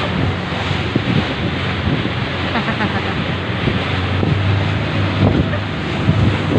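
A boat's engine running steadily under a steady rush of water and wind buffeting the microphone, with scattered small knocks and splashes.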